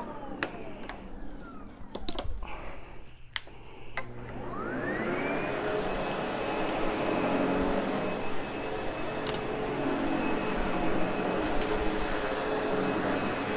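Sebo X8 upright vacuum cleaner motor winding down with a falling whine, then several sharp clicks and knocks while it is off. About four seconds in it is switched back on: the whine rises to a high steady pitch and the vacuum runs steadily.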